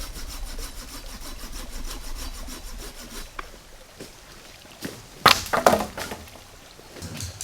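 Rhythmic scraping strokes, then a cluster of loud sharp cracks or knocks about five seconds in.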